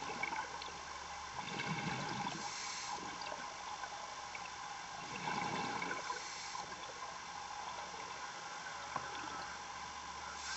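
A diver breathing through scuba gear, carried over a diving communication line: a slow cycle of breaths, each a hiss followed by a bubbling rumble, repeating every three to four seconds over a steady electronic hiss and hum.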